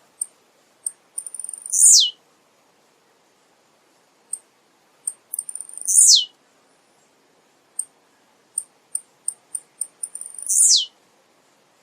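Male blue-black grassquit (tiziu) singing three songs about four seconds apart. Each is a few sharp high ticks and a quick stuttering run leading into a loud note that sweeps steeply down in pitch.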